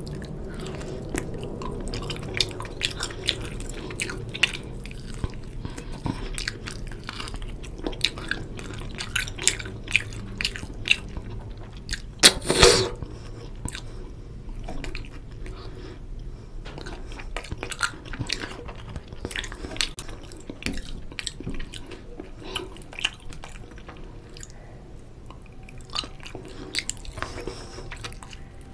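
Chewing and wet mouth clicks of a person eating oily mutton curry and rice by hand, close to the microphone: many short sticky smacks, with one louder sound about half a second long a dozen seconds in.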